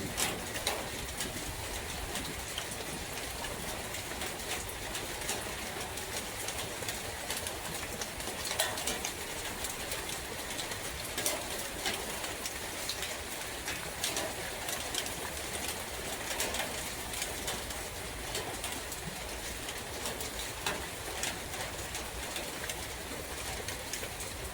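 Steady rain in a forest, an even patter with many individual drops striking close by, and a dove cooing softly now and then.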